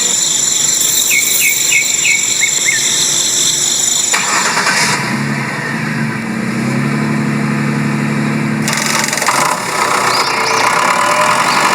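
Engine-like running sound of a DIY mini tractor, steady and pitched, changing abruptly about four seconds in and again near nine seconds, with a lower hum in the middle stretch.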